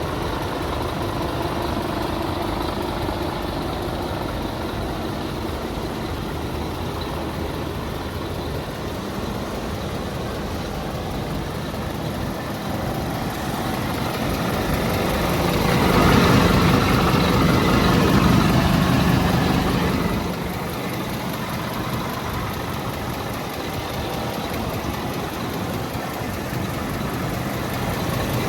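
Scania P320 truck's diesel engine idling. Past the middle it swells louder for about four seconds, then settles back to a steady idle.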